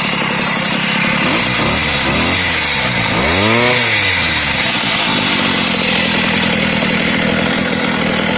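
Small two-stroke bicycle engine kit (G4 cylinder, AF80) running and sounding pretty good. It is revved up and back down twice, a short rev about two seconds in and a bigger one about three and a half seconds in, then settles back to a steady run.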